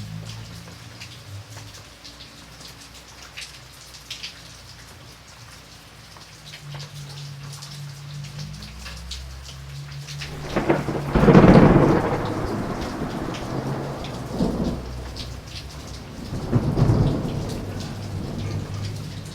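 Steady rain pattering, with a thunderclap about ten seconds in that rolls on as a rumble. Two weaker rolls of thunder follow.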